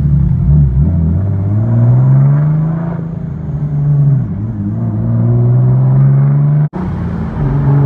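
Turbocharged Infiniti G37's V6 engine heard from inside the cabin, pulling on part throttle with the boost gauge still in vacuum. Its revs climb, ease back about four seconds in, climb again, then the sound cuts out for an instant near the end and carries on steady.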